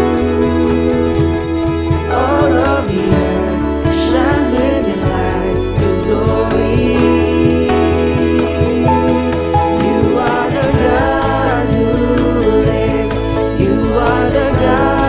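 Worship song: a band plays with sustained bass notes while singers sing the melody in phrases.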